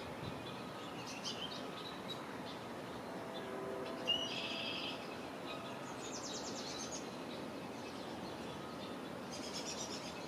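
Songbirds calling: several short, buzzy trills, the loudest about four seconds in, over a steady background hiss.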